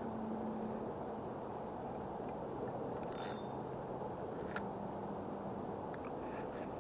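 Steady wind rumbling on the microphone, with a brief hiss about three seconds in and a single faint click a little later.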